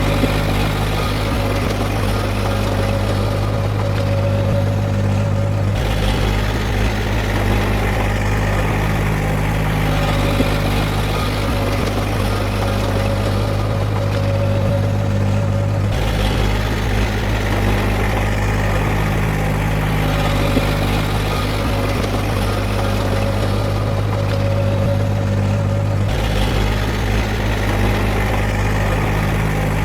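Diesel engine of heavy earthmoving machinery running steadily with a low hum and no revving.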